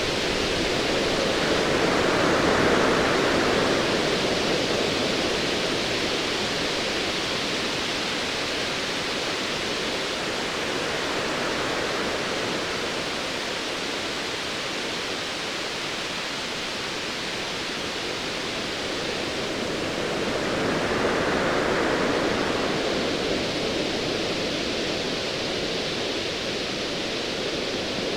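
Ocean surf washing in steadily, swelling twice as waves break: once a couple of seconds in and again about three-quarters of the way through.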